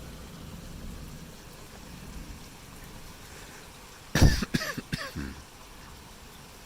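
Steady heavy rain falling. About four seconds in, a person coughs several times in quick succession, which is the loudest sound.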